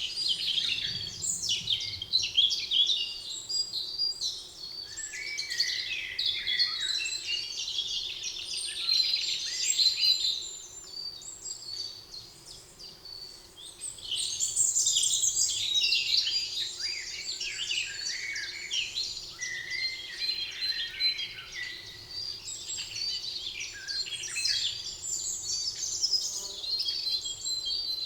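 Several songbirds singing and chirping over one another in a forest chorus, high and busy, with a brief quieter lull about halfway through.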